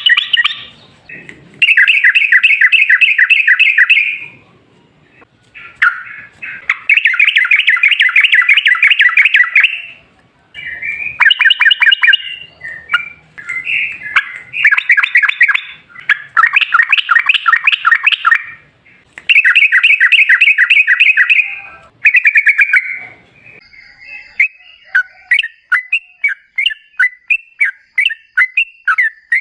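Yellow-vented bulbul singing in loud bouts of rapid, chattering repeated notes, each bout two to three seconds long. Near the end the song breaks into a string of separate short calls, about two a second.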